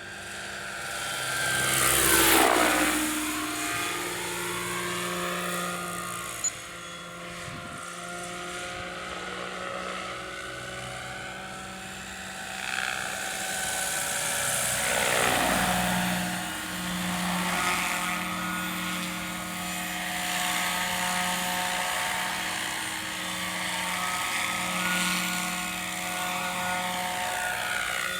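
Lockheed 286 helicopter flying past several times, its whine and rotor tones dropping in pitch as it goes by. The loudest pass comes about two seconds in, with further passes at about fifteen seconds and near the end.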